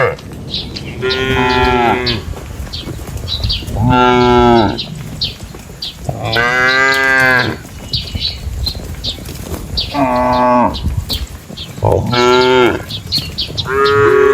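Cows mooing repeatedly: about five separate calls a couple of seconds apart, each rising then falling in pitch, with another beginning at the end.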